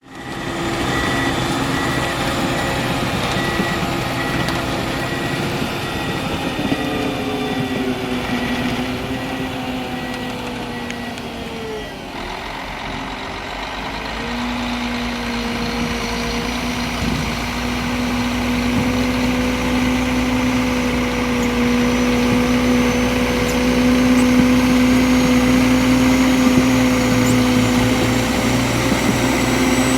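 Pistenbully 600 Polar SCR snowcat's Mercedes-Benz OM 460 LA six-cylinder turbodiesel working under load, with the whine of its turbo and hydraulic pumps. The whining tones dip in pitch about ten seconds in, then climb back and hold steady as the sound grows louder toward the end.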